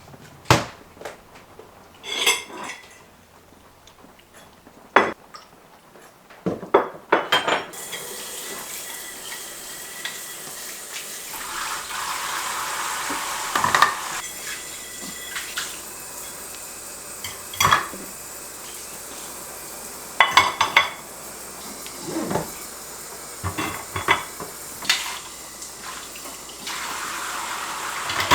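Dishes and cutlery clinking and clattering, with a tap starting to run about eight seconds in and carrying on under the clinks.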